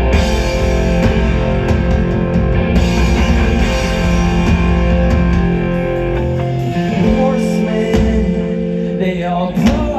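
Rock band playing live: electric guitars ringing out over bass and drums. The low end drops away about two-thirds of the way in, leaving mostly guitars.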